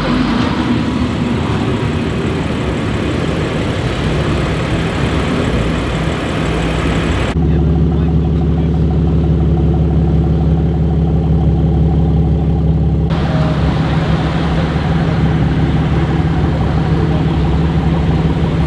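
BMW M3 F80's twin-turbo inline-six with a titanium iPE exhaust: mixed engine and road noise at first, then about seven seconds in a sudden change to a steady idle, a low even drone.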